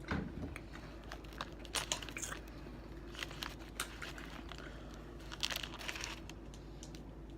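Someone eating a sub sandwich: the paper wrapper crinkles now and then, with scattered short chewing clicks and smacks over a faint steady hum.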